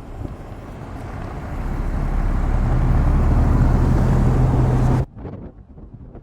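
A road vehicle passing close on a snowy highway: tyre and engine noise with a low hum grows louder over about three seconds, holds, then cuts off abruptly about five seconds in.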